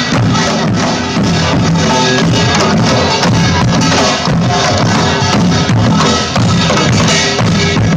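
Loud live band music with a drum kit keeping a steady beat.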